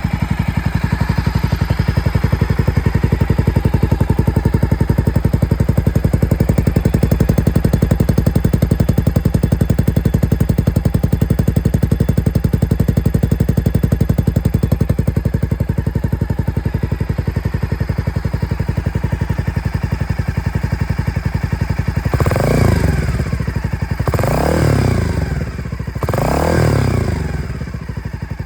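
Honda GB250 Clubman's single-cylinder four-stroke engine idling steadily through a Brooklands conti-style aftermarket muffler, then revved three times near the end, each blip rising and falling in pitch.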